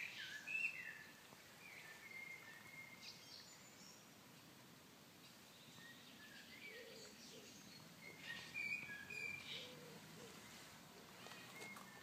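Quiet garden ambience with birds singing: scattered short, high chirps and song phrases, and a run of short, low repeated notes in the second half.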